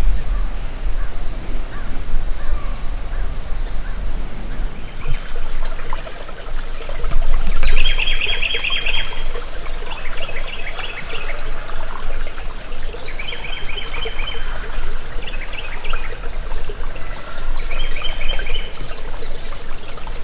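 Small birds chirping, one singing short rapid trills that recur every few seconds, over trickling creek water.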